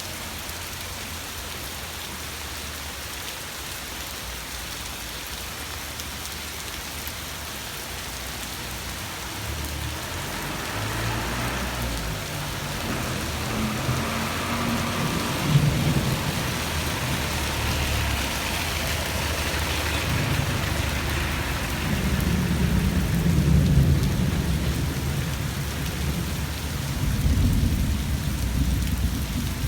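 Rain falling steadily, with low rolling rumbles of thunder that build about a third of the way in and swell several times.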